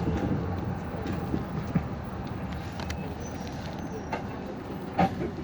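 City bus cabin noise: the diesel engine's steady low rumble with interior rattles. There is one sharp knock near the end.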